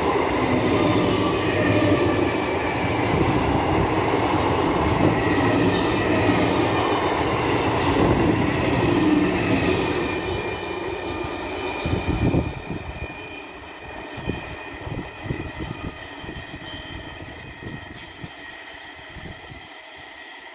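Twelve-coach electric multiple unit (EMU) local train passing close by at speed: loud rumble of steel wheels on the rails with a few steady high-pitched tones. After about twelve seconds the sound fades as the last coaches go by and the train draws away, leaving scattered low thumps.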